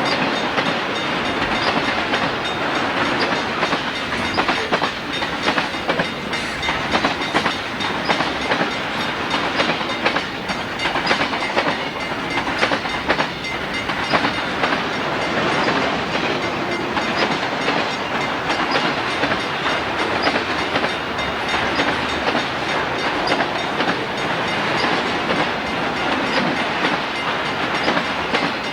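A freight train's cars rolling past steadily, their wheels clicking over the rail joints.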